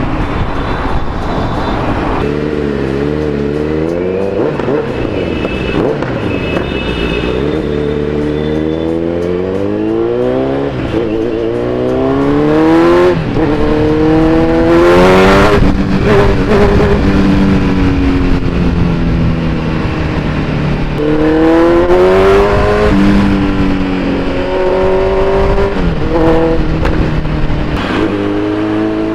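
Kawasaki Z900's inline-four engine through an Akrapovic full-system exhaust while riding, the revs repeatedly rising and falling as the bike accelerates and shifts through the gears. It is loudest in the middle stretch, from about thirteen to twenty-three seconds in.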